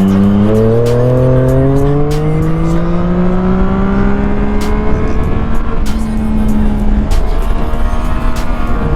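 Triumph Street Triple 660 S inline three-cylinder engine, A2-restricted and fitted with an SC Project exhaust, pulling under load with its note rising slowly for about five seconds, then holding, with small drops in pitch later on.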